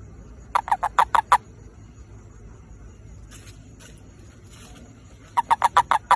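Male toad's mating call: two short bouts of rapid croaks, about seven each, the first about half a second in and the second near the end.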